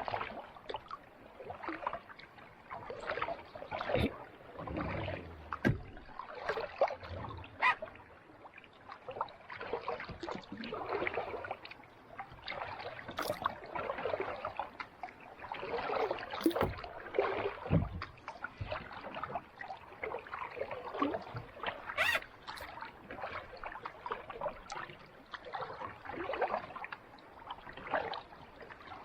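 Kayak paddling on calm sea water: repeated paddle strokes splashing and swishing every couple of seconds, with a few sharp clicks.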